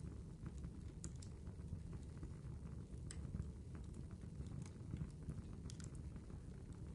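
Wood fire burning in a fireplace: a faint, steady low rumble of flames with sparse sharp crackles and pops, about one every second or two, two of them close together near the end.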